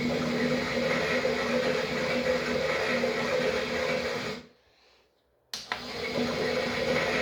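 Toy washing machine's small electric motor humming steadily. It cuts out a little past halfway, pauses for about a second, and starts up again with a click.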